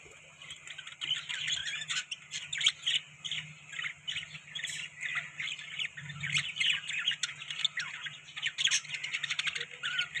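Budgerigars chattering: several birds giving rapid, overlapping chirps and squawky calls, quieter for about the first second, then continuous.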